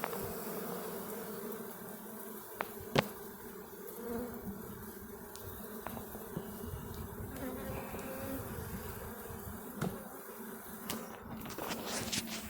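A swarm of Italian honeybees buzzing steadily as a dense hum, broken by a few sharp knocks, the loudest about three seconds in.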